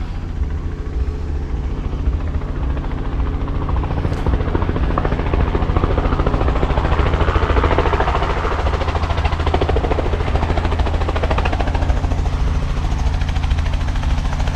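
Helicopter coming in, its rotor chop growing louder to a peak about halfway through, then holding steady over a low engine drone.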